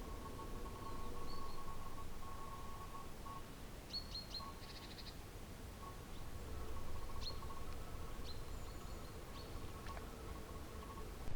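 Small birds giving short, high chirps several times, over faint outdoor background noise with a faint steady tone underneath.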